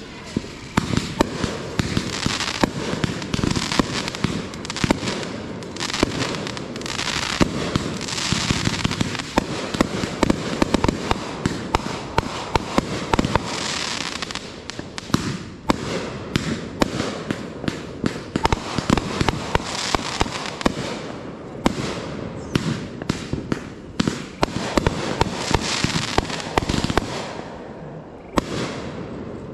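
Aerial fireworks going off in rapid succession: a dense string of sharp bangs and crackling stars, easing briefly near the end.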